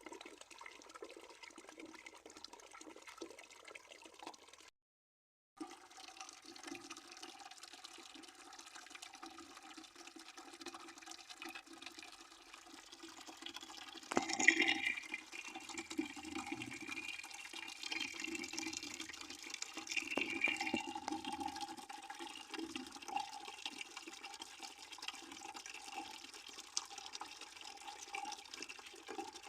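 Water running steadily into a bucket, splashing and gurgling, with a brief complete dropout about five seconds in and louder splashing from about halfway through.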